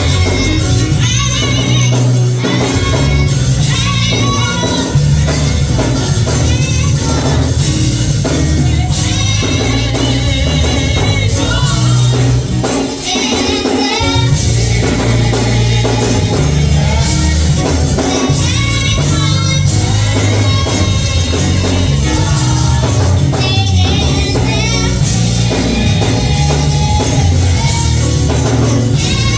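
Gospel music played live with singing, a steady bass line and drums or tambourine keeping a beat; the band drops out briefly about halfway through.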